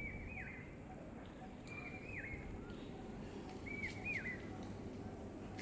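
A bird calling a short whistled phrase three times, each a held note that dips at the end, over faint outdoor background noise.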